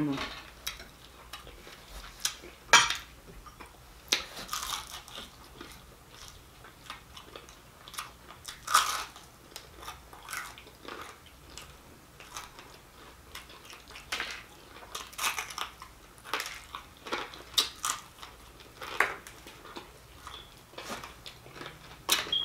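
Close-miked chewing and biting of crisp fried fish: irregular crunches and wet mouth sounds, the sharpest crunch about three seconds in, with a few light clinks of a fork against a glass bowl.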